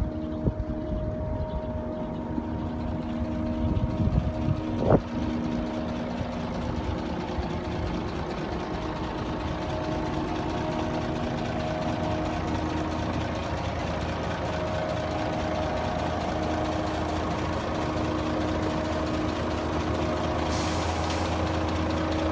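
Scania P94 truck's diesel engine idling steadily, with a single sharp click about five seconds in.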